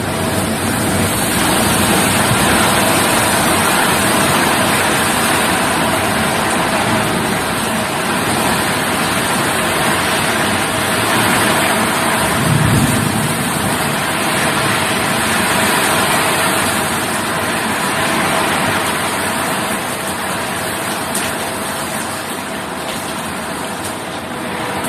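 Heavy rain pouring down in a steady downpour, with a short low rumble about halfway through.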